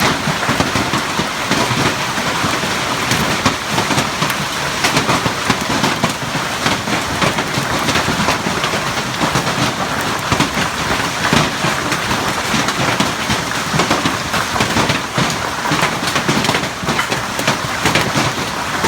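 Hailstorm with golf-ball-sized hailstones and rain pelting down: a dense, steady clatter of impacts, with many sharper knocks standing out.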